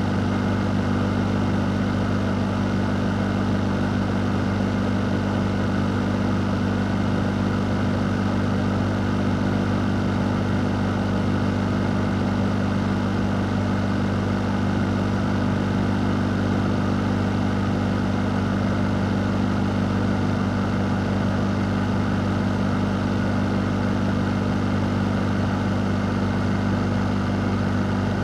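Electric fan running steadily: a constant low motor hum under an even, airy rush of moving air, with no change in speed.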